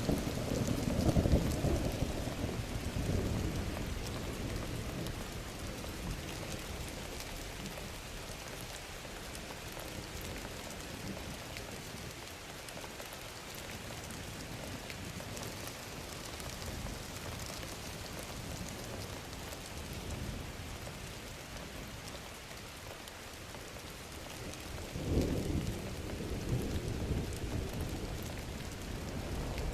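Thunderstorm sound effect: steady rain hissing on a surface, with a rumble of thunder dying away over the first few seconds and another low rumble of thunder rolling in about 25 seconds in.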